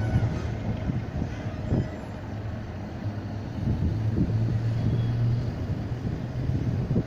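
Illuminated tram running past: a steady low electric hum with rumbling and a few soft knocks.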